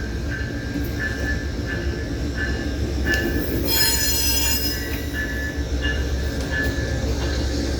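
Amtrak passenger train pulling into a station: a steady low diesel rumble, with a locomotive bell ringing evenly about once every two-thirds of a second. A high-pitched squeal of the wheels on the rails lasts about a second near the middle.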